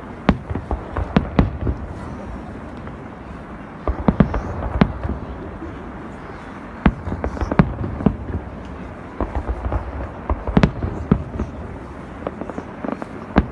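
Aerial fireworks display: a long run of shell bursts going off, sharp bangs coming in irregular clusters every second or so over a continuous rumble of further explosions.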